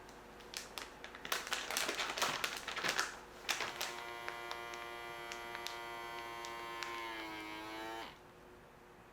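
Clicks and rustling of packaging and containers being handled, then a small electric motor runs with a steady whine for about four seconds, its pitch sagging just before it cuts off.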